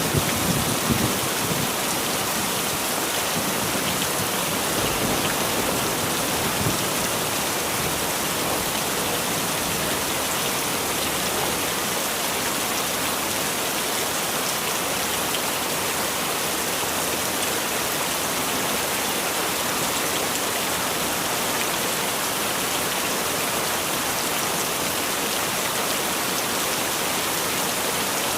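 Heavy rain falling in a steady, dense downpour, with a low rumble dying away in the first second or so.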